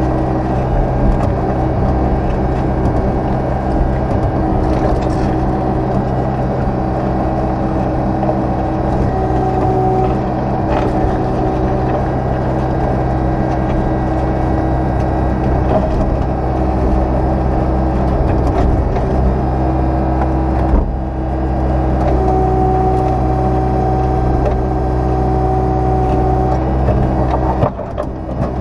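Excavator engine running steadily under work as the machine digs its way down a stone stack. A higher whine joins twice for a few seconds, with a single knock about 21 seconds in and a short clatter near the end.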